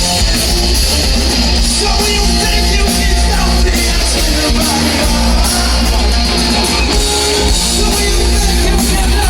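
Live rock band playing loudly, with electric guitar and a heavy steady bass, and some singing.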